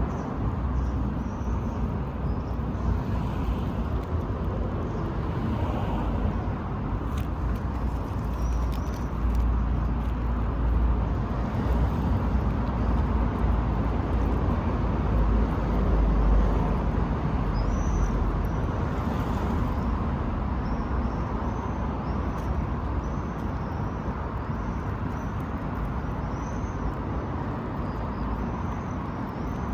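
Steady outdoor road-traffic noise, swelling for several seconds in the middle as a vehicle passes. Small birds chirp faintly through the second half.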